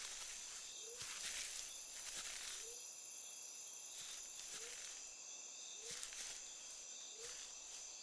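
Night insects, such as crickets, trilling steadily and softly, with a short low rising chirp repeating about once every second or so and a few faint rustles.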